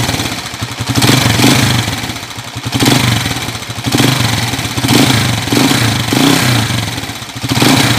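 Honda TMX155 single-cylinder motorcycle engine running with a loud clatter, revved up and down several times. The clatter comes from crankshaft end play, with the magneto rotor shifting back and forth.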